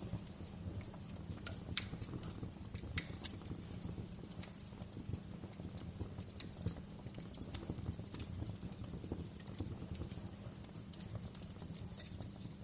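Wood fire crackling in a fireplace: an irregular run of small snaps and pops over a steady low rumble of the flames, with a few sharper pops in the first few seconds.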